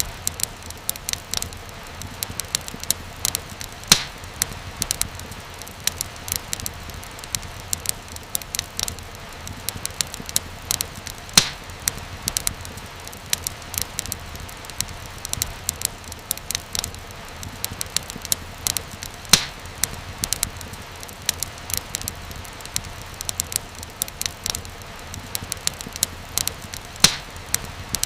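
Wood fire crackling: a steady run of small snaps and pops over a soft low rumble, with a few louder pops now and then.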